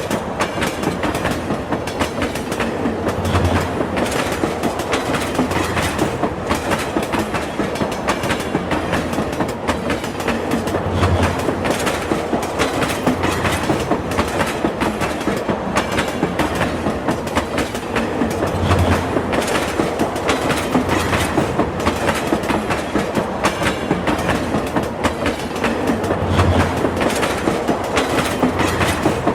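Train running at steady speed, its wheels clattering rapidly over the track, with a low thud about every seven to eight seconds.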